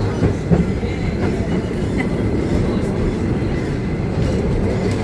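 Mary Valley Rattler heritage train running along the track, a steady noise of the carriages and wheels on the rails with a few light knocks.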